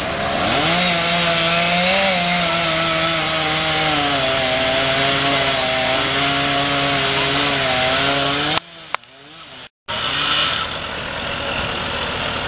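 Gasoline chainsaw revving up and running hard while cutting a fallen tree; its pitch wavers and drops lower about halfway through. Near the end the sound cuts off abruptly for about a second, then a quieter steady engine sound comes back.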